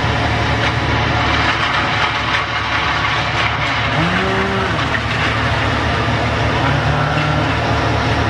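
A large engine running steadily at an even speed, a deep constant hum. A short tone rises and falls about four seconds in.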